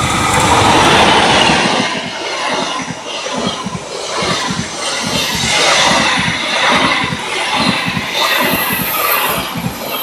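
Passenger or freight train passing close by, a loud rolling roar with its wheels clattering over the rail joints in a quick, uneven rhythm.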